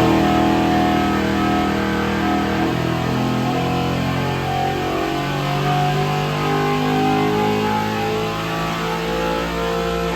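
Turbocharged LS V8 running hard on an engine dyno during a power pull, with music mixed in.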